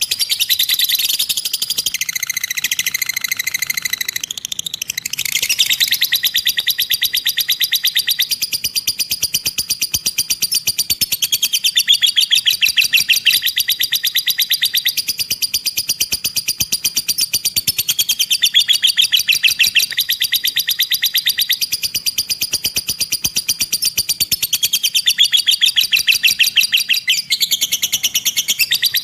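Lovebird 'ngekek' (ekekan): one long, fast, rattling chatter of rapid repeated notes, running almost without a break and shifting slightly in pattern a few times.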